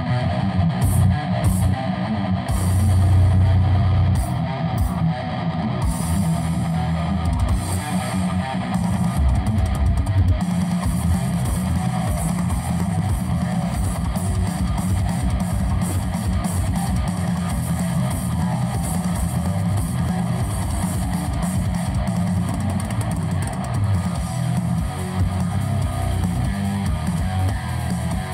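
Loud recorded music with guitar and heavy, booming bass, played through a parade sound system's speaker stacks.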